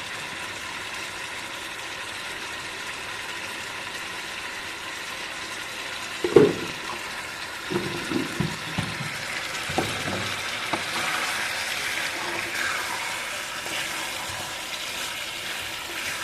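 Chicken curry with onion, tomato and masala sizzling as it fries in a kadhai. From about six seconds in, a spatula stirs and knocks against the pan several times.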